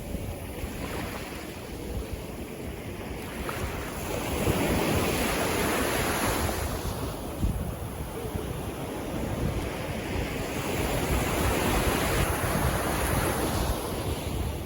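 Sea waves washing in and breaking, swelling to a louder surge about a third of the way in and again later, with wind buffeting the microphone as a low rumble.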